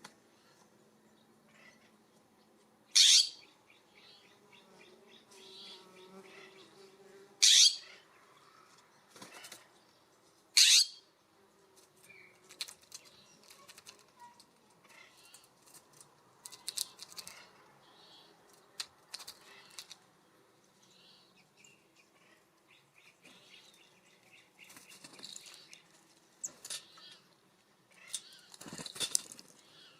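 Birds at a feeder: three short, loud rushes a few seconds apart, then many lighter scattered clicks and flutters, with another louder rush near the end.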